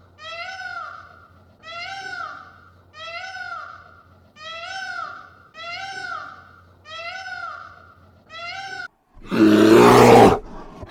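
An animal call repeated seven times, about once every 1.3 s, each a short pitched cry that rises and falls; about nine seconds in a much louder, harsh call.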